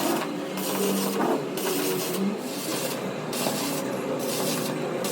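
Hand tool rasping on metal in steady back-and-forth strokes, a bit more than one stroke a second.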